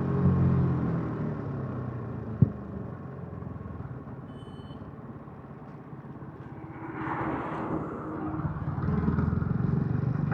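Yamaha MT-15's 155 cc single-cylinder engine on its stock exhaust, falling in pitch as the bike slows, then running low and quiet for a few seconds before the note builds again near the end. A single sharp click comes about two and a half seconds in.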